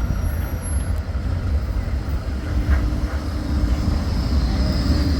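Tram running with a steady low rumble, a faint hum coming in around the middle.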